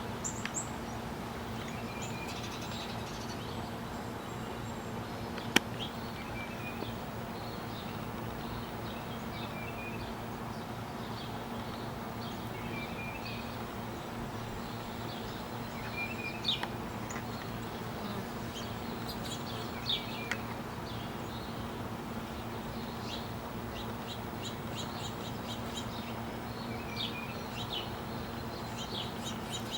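Outdoor birds chirping and calling in short repeated notes scattered throughout, busier in the second half, over a steady low hum. A single sharp click about five seconds in.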